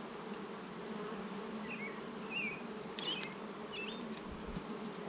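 A colony of honey bees humming steadily around an open hive during a frame inspection. Short high chirps come a few times over the hum, and there is a brief click about three seconds in.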